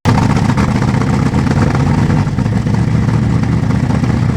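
Jensen Interceptor's 7.2-litre Chrysler V8 idling steadily, loud and low, through a twin straight-through stainless exhaust with no silencers.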